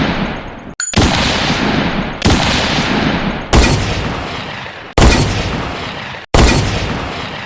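A run of loud gunshot sound effects for a sniper rifle, about five shots each a second and a half or less apart, each starting suddenly and ringing out before the next.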